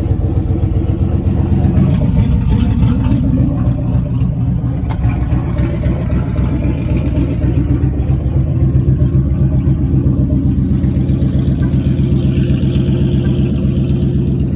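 Vehicle engine running at a steady idle just after a cold start in freezing weather.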